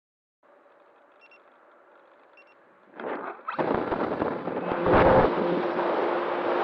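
Faint hum with two short high beeps, then about three seconds in a loud rushing of air over the RC glider's onboard microphone sets in and stays, with a steady tone running under it.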